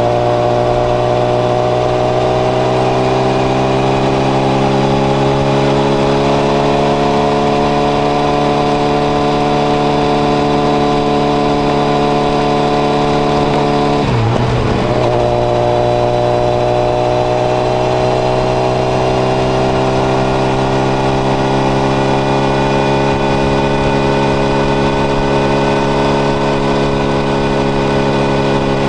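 Honda CBR1000RR (SC57) inline-four running at steady cruising revs through a modified Moriwaki exhaust with its baffle fitted. The note rises slowly, dips sharply for a moment about halfway through, then picks up and climbs again.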